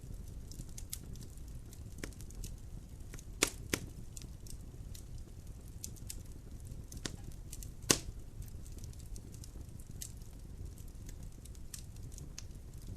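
Logs burning in a fireplace: a steady low rumble of flame with scattered sharp crackles, and a few louder pops, two close together a third of the way in and the loudest a little past the middle.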